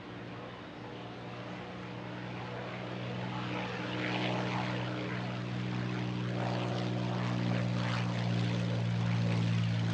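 A propeller-driven airplane's engine running with a steady low drone, growing steadily louder as the aircraft comes closer.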